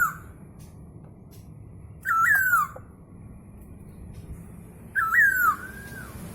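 Poksay hongkong (masked laughingthrush) giving loud, whistled calls with wavering pitch, two strong bursts about three seconds apart, with a fainter call near the end over a low background hum.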